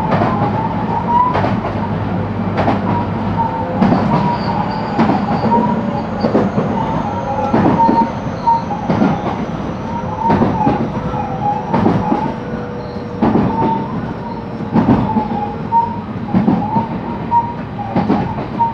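Onboard running sound of a JR West 223 series electric train: the wheels click over rail joints at a steady pace, about once every second and a half, over a continuous rumble. A faint high whine falls slowly in pitch through the middle.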